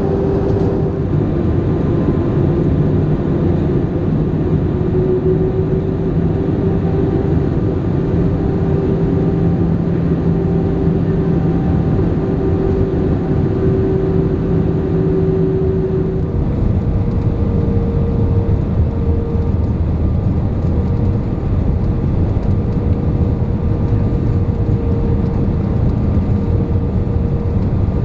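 Steady roar of jet engines and rushing air inside the cabin of a British Airways Airbus A318 on approach to land. Partway through, the engine hum steps up to a higher pitch.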